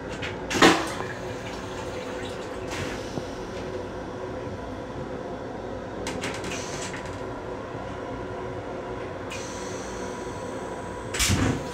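Steady hum of an M7 railcar's running equipment, heard from inside its restroom. A sharp clack sounds about half a second in, lighter clicks follow a few seconds later, and a heavier thud comes near the end.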